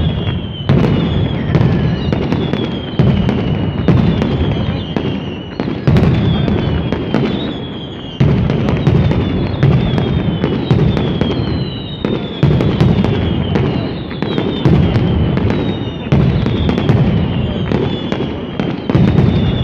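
Daytime street fireworks display in the style of a Valencian mascletà: a dense, continuous barrage of firecracker bangs, with falling whistles about once a second and the volume surging every second or two.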